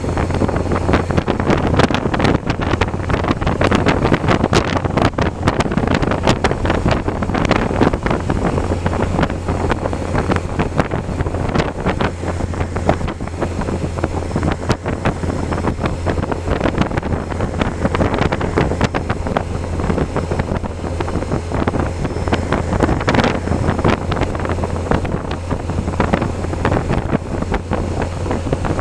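Wind rushing and buffeting over the microphone while riding, over a steady low drone.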